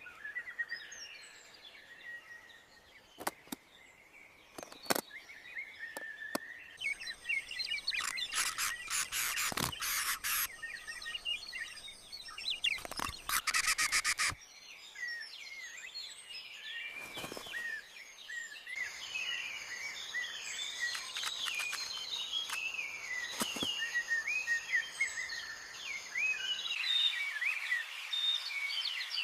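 Forest ambience: many birds chirping and twittering, with a steady high insect drone at times, a few sharp clicks, and two loud bursts of noise in the first half.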